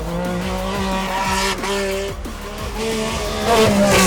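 Metro 6R4 Group B rally car's V6 engine running hard on a loose rally stage as the car slides about, with background music over it; it gets louder near the end.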